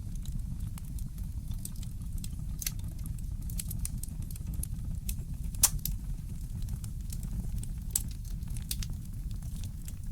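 Fireplace crackling: scattered small pops and snaps over a steady low rumble, with one sharper pop a little past halfway and another about two seconds later.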